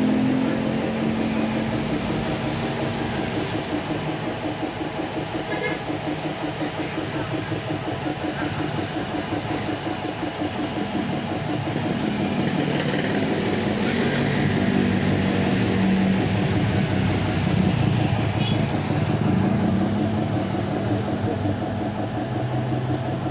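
Motorcycle engine running steadily at idle, an even rapid pulsing throughout.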